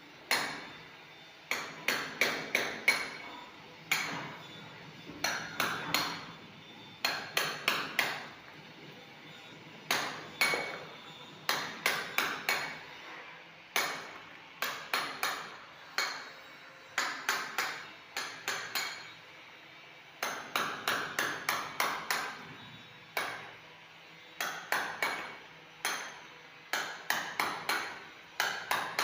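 Hammer blows chipping plaster off a small column, coming in quick runs of three to six strikes with a brief gap between runs. Each strike is a sharp hit with a short ringing ping.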